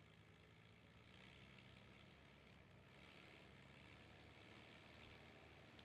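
Faint, steady idling of a vehicle engine, heard at a distance.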